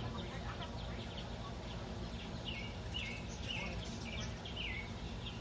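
A small bird chirping: a run of short, falling chirps, about two a second, starting about halfway through, over a steady low rumble.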